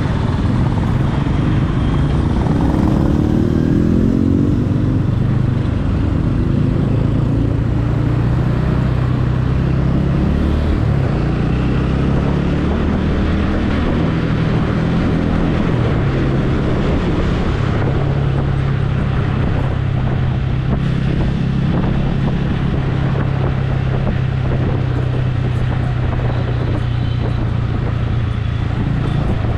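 Motorcycle engine running on the move. Its pitch rises and shifts over the first few seconds as it accelerates, then holds steady for the rest.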